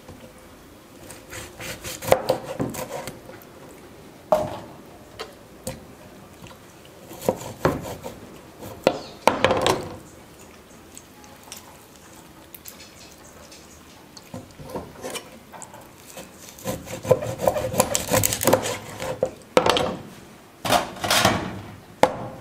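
Kitchen handling sounds from preparing raw chicken wings: irregular scraping and rubbing with knocks of utensils and dishes, busiest near the end.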